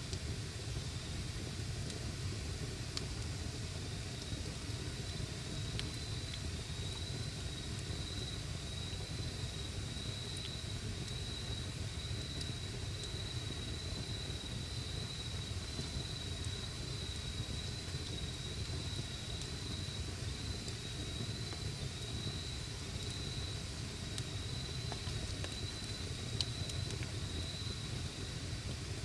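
Wood campfire burning, with a low steady rumble and occasional sharp crackles and pops. A high, steady insect trill joins about five seconds in.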